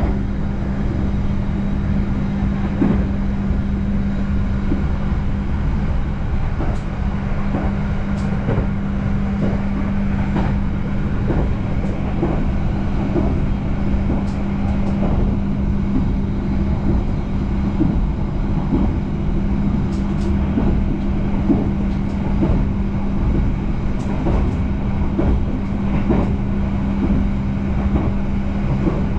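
Argo Bromo Anggrek express train running at speed, heard inside a passenger coach: a steady rumble of wheels on rail under a constant hum, with faint irregular clicks from the track.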